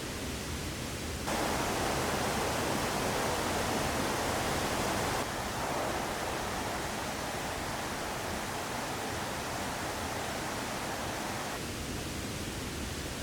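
Steady rush of a mountain river flowing past. Its loudness steps up about a second in and drops back in two steps later on.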